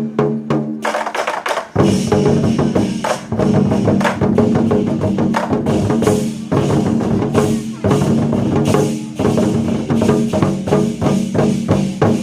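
Ensemble of Chinese war drums beaten together in a fast, dense rhythm over a sustained low tone. The drumming swells to full loudness about two seconds in.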